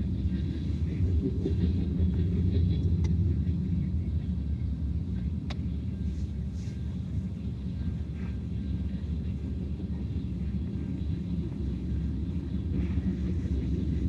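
Train passing, a steady low rumble with a couple of faint clicks.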